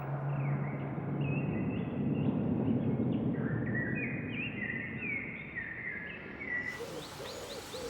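Small birds chirping: a run of short whistled notes, several overlapping, over a steady outdoor background noise.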